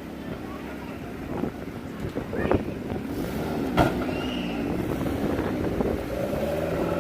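A car engine running, growing louder from about halfway as its pitch rises and falls, with a single sharp click near the middle.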